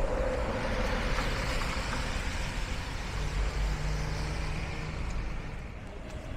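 Road vehicle noise: a steady rush of traffic or a vehicle running, with a low engine hum in the middle.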